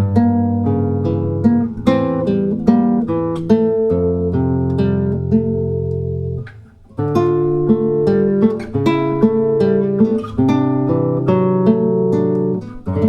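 Instrumental music on acoustic guitar, a steady run of plucked notes. It drops away briefly about six and a half seconds in, then picks up again.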